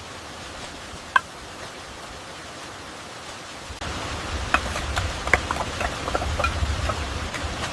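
Steady rushing noise of falling water, which grows louder with a deeper rumble about four seconds in, with scattered small clicks and ticks over it.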